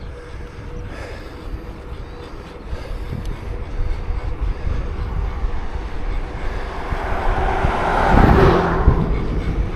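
Steady low wind and road rumble while riding a bicycle, with a car passing that swells up and fades away near the end.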